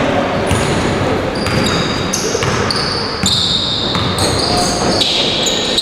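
Indoor ball game in an echoing sports hall: a ball bouncing on the floor amid a dense wash of court noise, with short high squeaks coming and going throughout.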